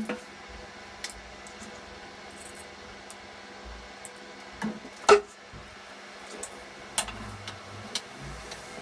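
Scattered small clicks and knocks of hand work on the wiring, the loudest a sharp knock about five seconds in, over a faint steady hum.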